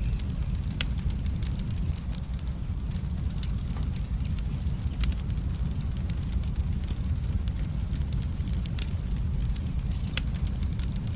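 Log fire in a fireplace crackling: irregular sharp pops over a steady low rumble.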